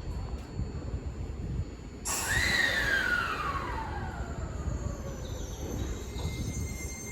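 Seibu 20000 series train's Hitachi IGBT-VVVF traction inverter and motors whining over the low rumble of the train. The whine starts abruptly about two seconds in and falls steadily in pitch over about three seconds.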